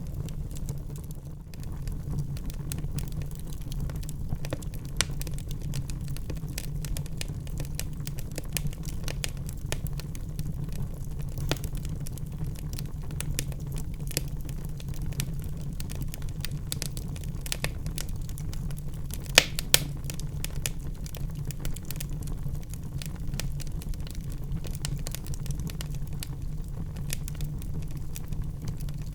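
Wood fire burning in a fireplace, crackling constantly over a steady low rumble of flame, with two louder pops close together about two-thirds of the way through.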